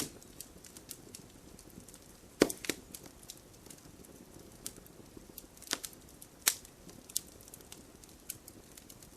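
Wood burning in a campfire, crackling with scattered sharp pops over a soft low hiss of the flames; the loudest pop comes about two and a half seconds in, with a few more a little after halfway.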